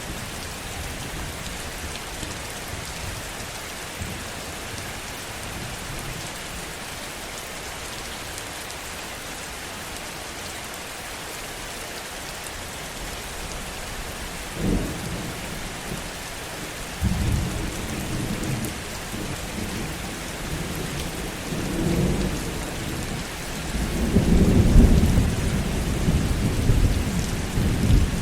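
Heavy rain falling steadily, with thunder about halfway through: a sudden crack, then a rolling low rumble that builds and is loudest near the end.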